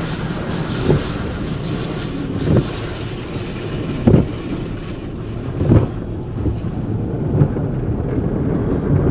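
Automatic car wash machinery running around a car: a steady low rumble and wash noise with a dull thump about every second and a half.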